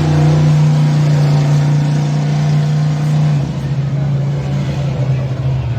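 Monster truck engine held at high revs, then dropping in pitch and level about three and a half seconds in as it comes off the throttle.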